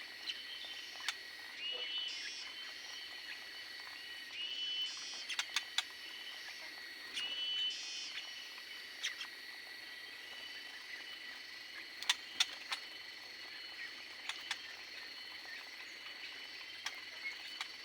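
Small caged birds giving a few short chirps, about three loud ones in the first half, with scattered sharp clicks, over a steady high-pitched insect-like drone.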